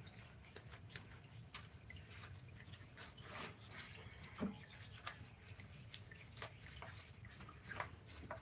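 Faint, scattered light clicks and taps, irregular and a second or so apart, over a steady low hum.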